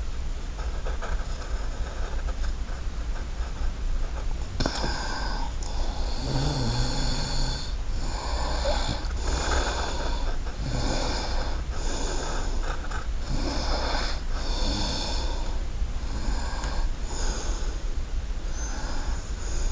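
Drawing strokes scratching on paper, short repeated strokes about once or twice a second starting a few seconds in, over a steady low hum.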